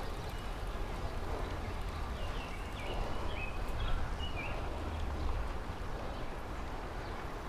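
Steady low wind and ride rumble from a bicycle-mounted camera rolling along a park road. A few short high chirps come between about two and four seconds in.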